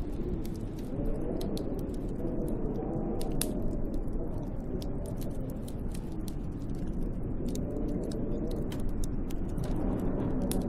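Snowstorm wind blowing steadily, a low rushing noise that wavers slowly in pitch like gusts moaning, with scattered sharp ticks and crackles throughout.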